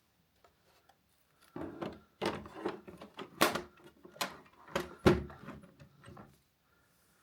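Hard plastic clicks and knocks from a Roomba robot vacuum and its dustbin being handled, an irregular run of a dozen or so, the loudest a little past three and a half and five seconds in.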